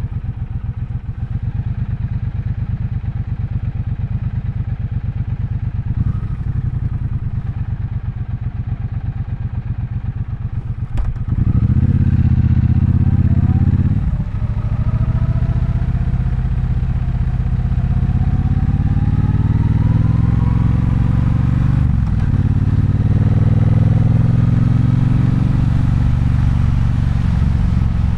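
Triumph Bonneville Bobber's parallel-twin engine running at low, steady revs, then opening up about eleven seconds in: the revs climb, drop briefly twice at gear changes and climb again as the bike pulls away.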